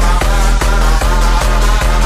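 Tekstyle hard dance music at about 150 bpm: a heavy, distorted bass kick on every beat, about two and a half beats a second, under a sustained synth line.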